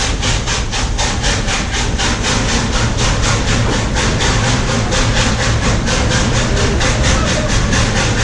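Museum train running, heard from inside a vintage passenger coach: a steady low rumble with a rapid, regular beat of about six strokes a second, echoing as the coach passes through a tunnel.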